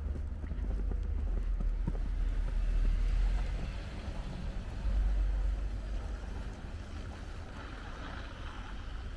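Wind buffeting the microphone in a snowstorm, a low, uneven rumble that swells twice, with a rising hiss near the end.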